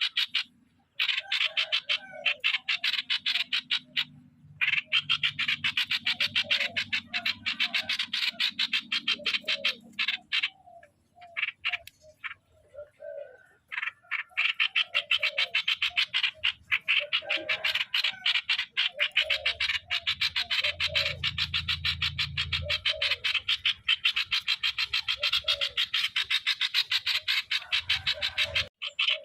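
Streak-eared bulbul calling in short, repeated notes over a dense chorus of fast, even pulses that breaks off for a few seconds and starts again.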